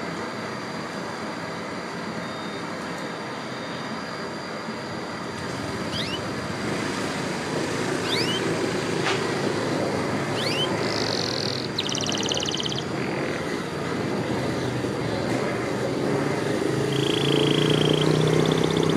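Canaries giving short rising chirps and brief trills over a steady background noise, with a low hum growing louder near the end.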